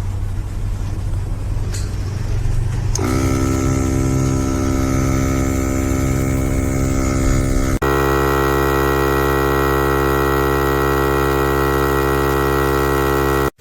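Portable 12-volt air compressor running with a steady electric hum and whine; the motor spins up about three seconds in, and the sound cuts abruptly to another steady run about halfway through.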